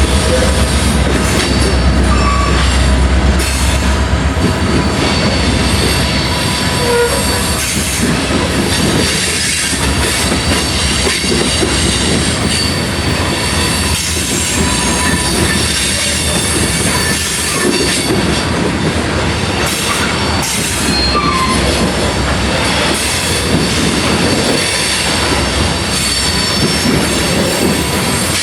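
Freight train of grain hopper cars rolling past, the wheels squealing against the rails and knocking over rail joints. A deep rumble in the first few seconds eases off as the locomotives move on and the cars keep coming.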